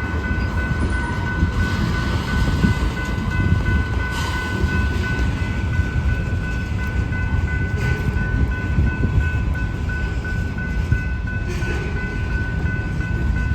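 A long BNSF freight train rolling past: a steady low rumble of wheels on rail, with a thin steady high whine over it and a few faint knocks.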